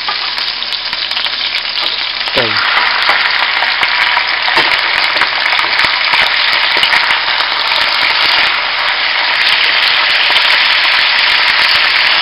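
Hot oil sizzling in a wok with scallions, ginger and garlic frying. About two seconds in, pieces of hairtail fish go in and the sizzle grows louder, then goes on steadily.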